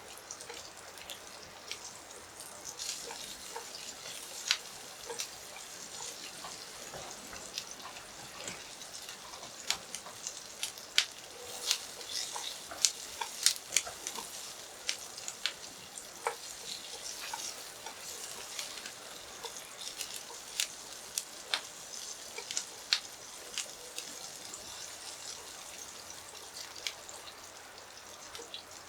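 Food sizzling over a charcoal grill: a steady hiss broken by many irregular sharp pops and crackles, thickest in the middle.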